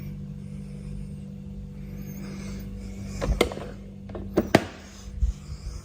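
A steady low hum, with a few sharp clicks and knocks about three seconds in and again between four and five and a half seconds in.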